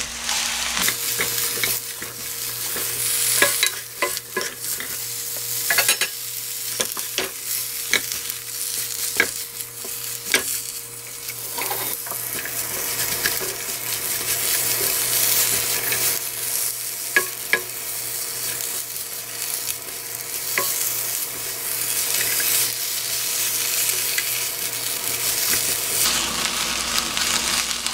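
Fish cakes, onion and green onion sizzling in oil in a nonstick wok over medium heat as they are stir-fried. A spatula scrapes and clicks against the pan throughout.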